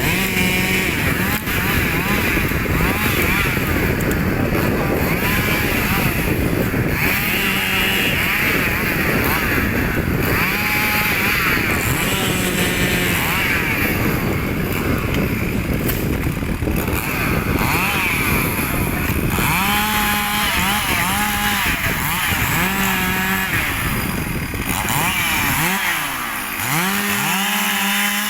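Chainsaw running and revving up and down again and again, cutting through wood.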